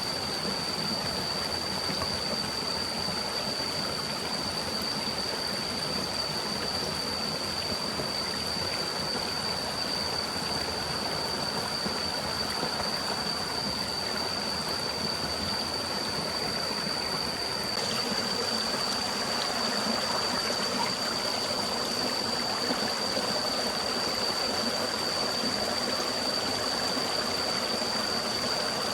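Forest stream running, an even rush of flowing water, with a steady thin high tone over it.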